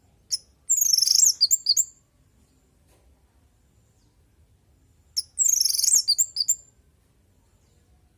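Orange-headed thrush singing: two short, high, warbling phrases of quick gliding notes, about four seconds apart, with a brief note just before the first.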